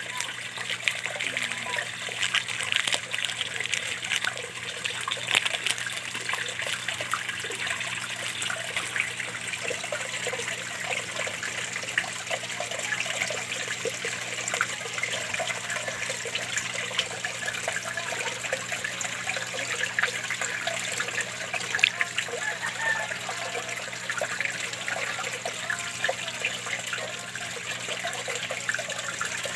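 Small fish-pond waterfall: water splashing and trickling steadily into the pond, with many small spatters. A low steady hum runs underneath.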